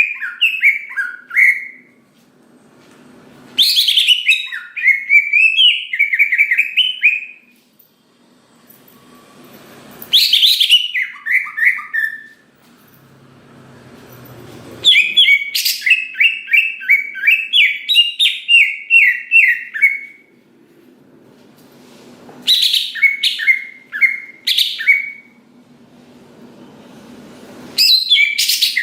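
Cucak ijo (greater green leafbird) singing loudly in repeated phrases. Each phrase opens with a sharp high note and runs into a quick string of warbling notes, with short pauses between phrases. This full, continuous 'gacor' song is the kind used to provoke other cucak ijo into singing.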